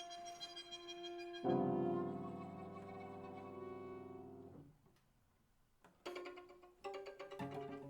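Piano trio of piano, violin and cello playing contemporary chamber music: held high tones give way to a loud low chord about a second and a half in that slowly fades. After a short silence, sharp separate attacks and a new low sustained note come in near the end.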